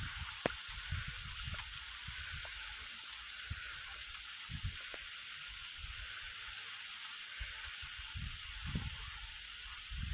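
Steady rushing hiss of airflow and ventilation inside an Airbus A320 cockpit, with scattered faint low thumps.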